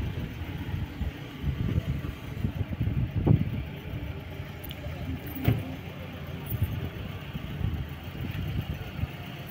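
A car engine idling with an uneven low rumble, with a sharp knock about five and a half seconds in.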